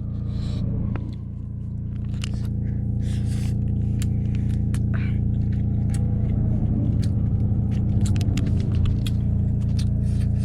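Steady low mechanical hum with many light clicks and scrapes scattered over it.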